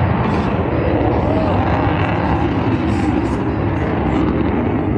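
Steady, loud roar of a jet aircraft flying overhead.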